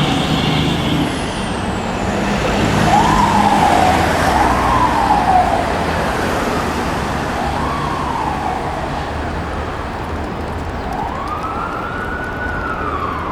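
Seagrave fire engine's siren giving short rising-and-falling whoops, then one longer wail that climbs and falls away near the end, over the rumble of the truck's engine as it responds.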